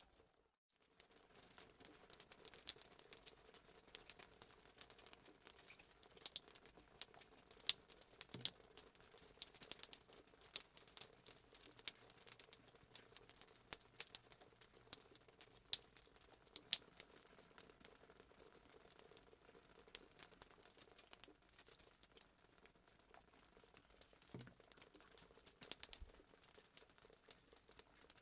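Crackling wood fire, a fireplace sound effect: irregular quick pops and snaps over a faint hiss. It drops out briefly about half a second in.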